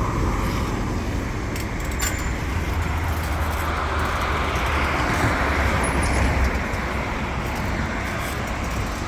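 Road traffic running past at a city intersection: a steady engine and tyre rumble that swells for a few seconds in the middle as a vehicle goes by.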